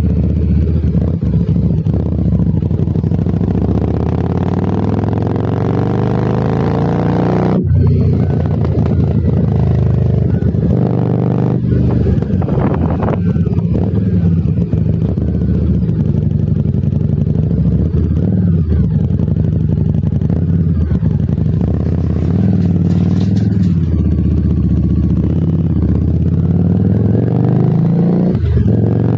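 Harley-Davidson Street 750 V-twin running through a Vance and Hines aftermarket exhaust while riding, its pitch climbing under throttle and dropping off several times, with sharp breaks about eight and twelve seconds in.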